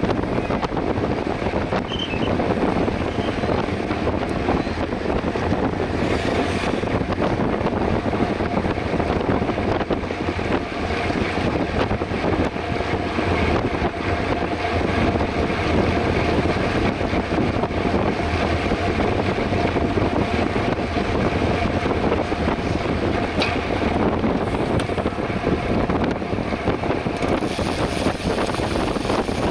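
Steady wind noise rushing over the microphone of a camera on a mountain bike ridden at speed.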